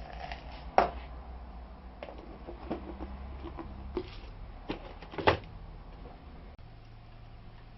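Scattered light knocks and clicks from containers being handled while mealworms go into the feeder dishes, about six in all, the sharpest about one second in and about five seconds in, over a low steady hum.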